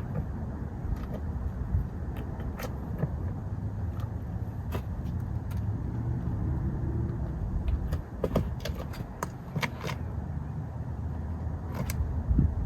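Low rumble of wind and handling noise on a camera carried during a free climb, with scattered scrapes and clicks of hands, shoes and gear against rock, several in quick succession about two-thirds of the way through.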